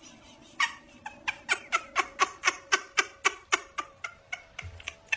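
A pet animal calling in a rapid series of short, pitched yips, about five a second, weakening after about four seconds.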